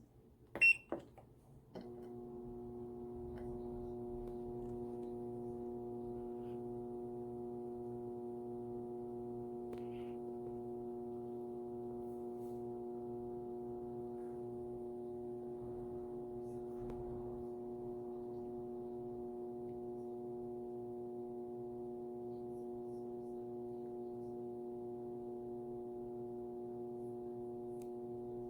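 Krib Bling compact washing machine: a single control-panel beep, then about two seconds in its motor or pump starts and hums steadily at one even pitch.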